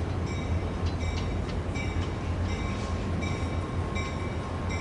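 Caltrain gallery-car train departing, pushed by an EMD F40PH-2CAT diesel locomotive at the rear: a steady low diesel rumble with running-gear noise. A faint short high tone repeats about once a second.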